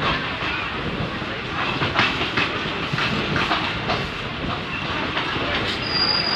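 Passenger train rolling slowly, heard from an open coach door: a steady rumble with irregular clacks from the wheels over the rail joints, and a short high-pitched tone near the end.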